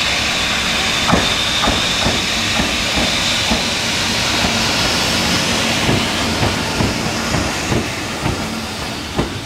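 EF65 electric locomotive passing, towing unpowered Semboku Rapid Railway 12000 series cars, with a steady high whine that fades about halfway through. Wheels clack over rail joints about twice a second as the cars roll by.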